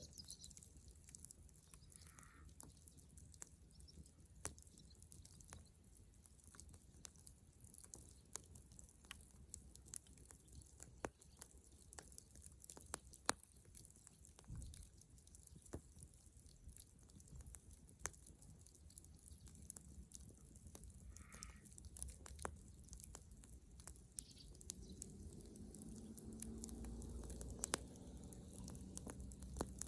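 Dead-wood bonfire crackling, with scattered sharp snaps and pops from the burning wood. A low rumble comes in near the end, and a bird chirps faintly twice.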